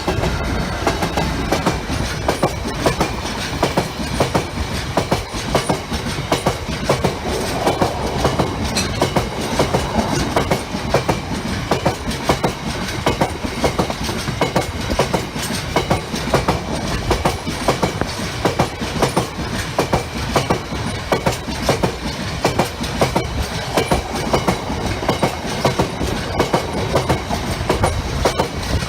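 A train passing close by, its wheels clattering rhythmically over the rail joints, wagon after wagon.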